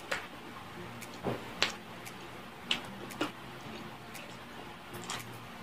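Close-miked eating sounds of someone eating fried chicken and rice by hand: about six short, sharp mouth smacks and chewing clicks, spread irregularly over a few seconds.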